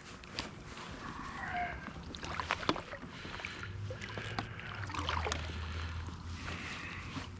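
Kayak on calm water with scattered clicks and knocks from handling the boat and fishing gear, and water sloshing against the hull. A low rumble of wind on the microphone sets in after a few seconds.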